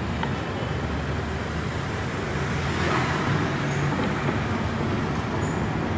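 Steady motor-vehicle noise: an even running rumble with a hiss over it.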